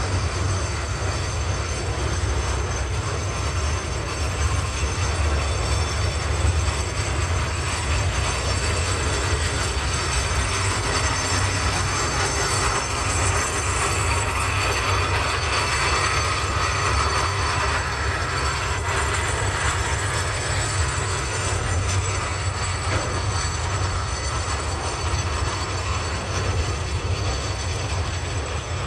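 Double-stack intermodal freight train rolling past, its well cars rumbling and clattering over the rails with a steady high-pitched wheel squeal. The sound eases slightly near the end as the last car goes by.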